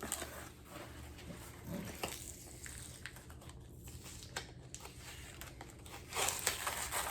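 Paper record sleeves and packing tape being handled and pulled apart, a soft rustling and crinkling with small tearing sounds that grows louder near the end.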